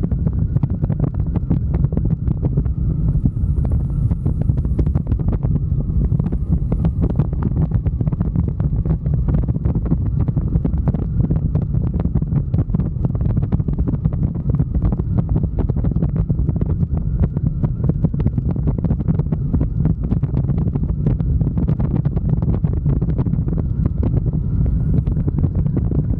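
Wind buffeting the microphone on a moving motorcycle: a loud, steady low rumble with constant crackle.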